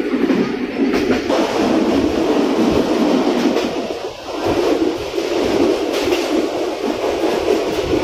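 Moving passenger train coach heard from inside: a steady rumble and rattle of wheels on the track, with a couple of sharp clicks over rail joints.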